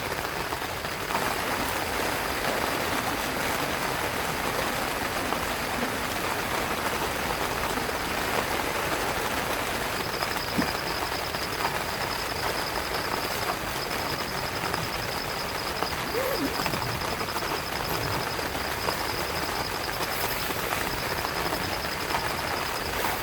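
Steady heavy rain pouring on and around a tent. From about ten seconds in, a faint high, rapidly pulsing trill runs beneath it.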